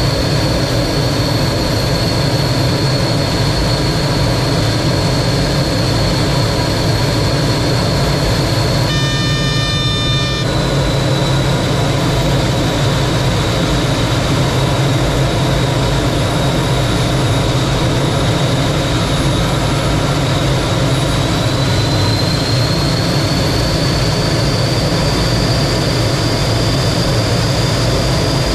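T-33 jet trainer's turbojet running steadily in flight, a loud rushing noise with a high engine whine. The whine dips slightly about ten seconds in and climbs back near the end.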